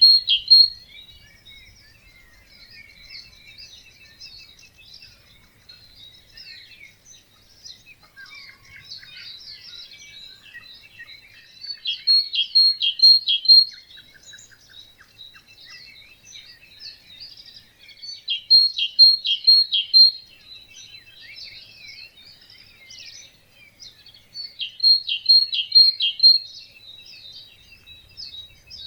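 Several birds singing in a dawn chorus. One nearby bird repeats a loud phrase of a few quick, evenly repeated notes about every six seconds, over softer, continuous twittering from other birds.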